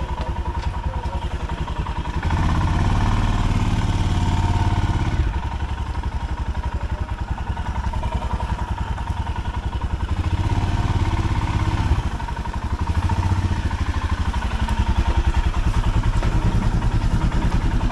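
Royal Enfield motorcycle engine running, with a steady, closely pulsing low note; it gets louder about two seconds in and again near the end.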